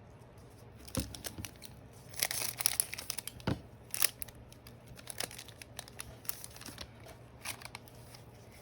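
Trading cards and their pack wrapper being handled: crinkling and rustling with scattered light clicks, including two sharper knocks about a second in and a little before the middle.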